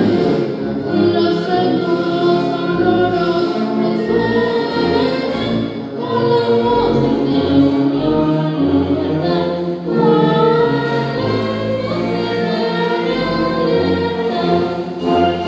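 Music: a choir singing with orchestral accompaniment.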